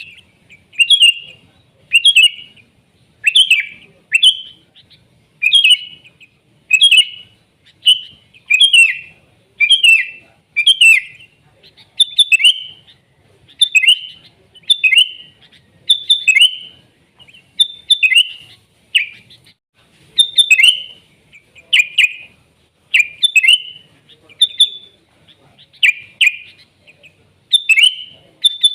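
Sooty-headed bulbul (kutilang) singing loudly: short, bubbly phrases of quick chirping notes, repeated about once every second or so without a break.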